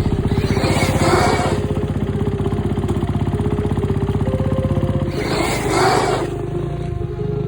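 Dirt bike engine running with a fast, even pulse. Two short swells of louder rushing noise come about half a second in and about five seconds in.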